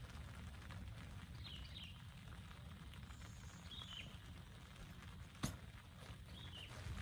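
Steady rain hiss with a low rumble underneath, while a bird gives a short falling chirp three times, roughly every two and a half seconds. A single sharp tap about five and a half seconds in is the loudest sound.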